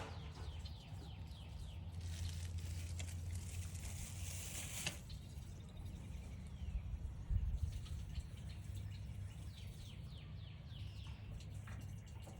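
Wild songbirds calling outdoors, with runs of quick falling chirps near the start and again late on, over a soft steady rumble.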